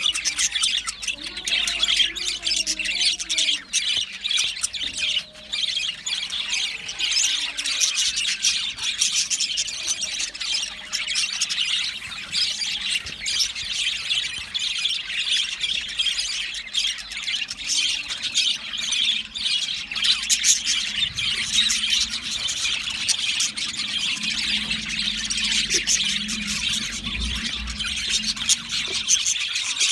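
Budgerigars chattering: a dense, unbroken mix of chirps, warbles and squawks.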